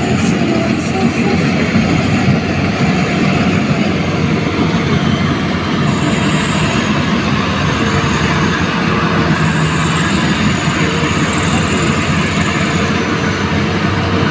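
Combine harvester running steadily while harvesting rice: a loud, continuous mix of engine and machinery noise, without pauses.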